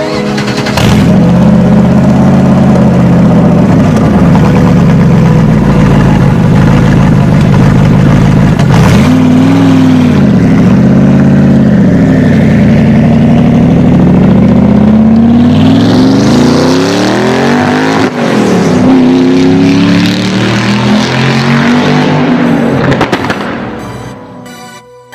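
Gumpert Apollo's twin-turbo V8 running steadily, blipped a few times, then pulling away hard: its pitch climbs, drops at an upshift, climbs again, and fades away near the end.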